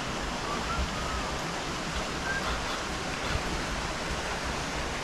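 Steady rushing roar of a waterfall: an even wash of falling water with no clear rhythm or breaks.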